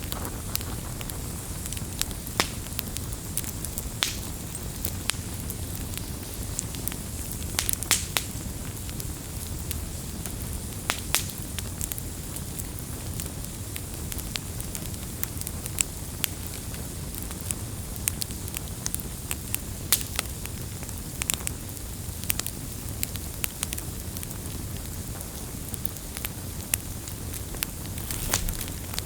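Campfire crackling: irregular sharp pops and snaps, scattered a few to the second, over a steady low rumble.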